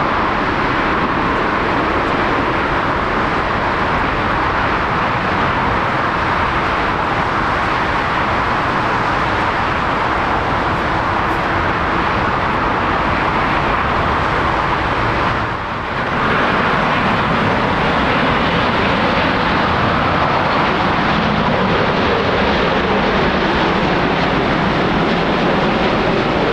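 Jet airliner engines, loud and steady. The sound dips briefly about sixteen seconds in, then resumes with a tone that slowly falls in pitch.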